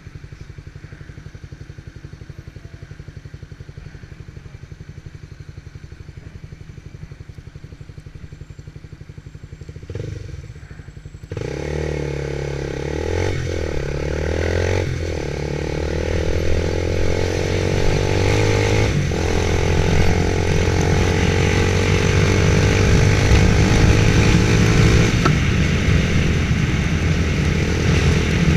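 Motorcycle engine with a low, steady rumble at first. About eleven seconds in it becomes suddenly much louder, and the engine note climbs with brief dips, as when riding off and shifting up through the gears.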